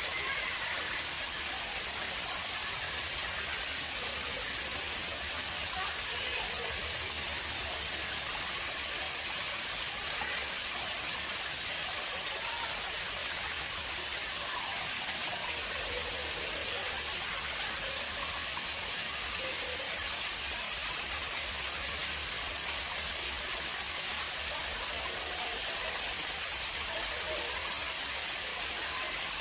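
Water flowing steadily into an artificial pond, a constant even rush of splashing water.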